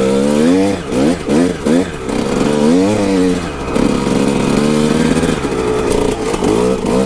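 Kawasaki KX125 two-stroke dirt bike engine being ridden, its pitch rising and falling with the throttle: several quick revs in the first three seconds, then a steadier stretch, then more revving near the end.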